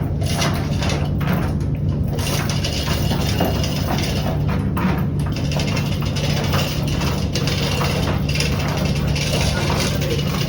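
Steady low machinery hum with irregular knocks and clatter on top, and voices in the background.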